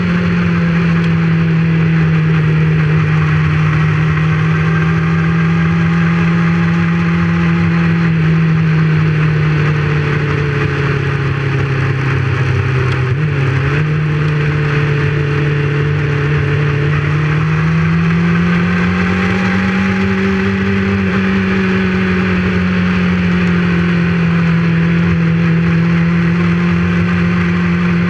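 Motorcycle engine running steadily at cruising speed. Its pitch sinks slowly to about halfway through, then rises again over a few seconds as it speeds up, and levels off.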